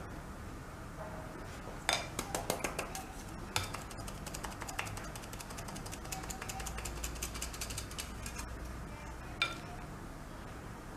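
A flour sifter at work as cocoa and flour are sifted into a bowl: a few sharp clicks, then several seconds of rapid, fine mechanical clicking, and one more click near the end.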